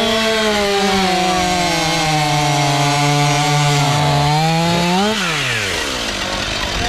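Two-stroke chainsaw at full throttle, its engine note sagging steadily as it bogs under load in a cut. About five seconds in the note briefly rises as the saw frees up, then drops quickly to idle.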